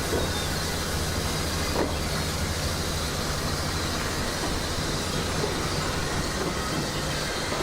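Railway sound effects of a goods train: a steady rumble of a locomotive and wagons on the track, with a light knock just after it starts and another about two seconds in.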